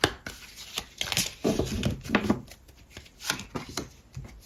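Tarot cards being handled: shuffled and laid down on a table in a string of irregular sharp taps and flicks.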